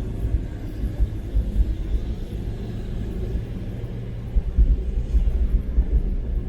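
A car driving: a steady low rumble of engine and road noise, with louder low buffeting about four to six seconds in.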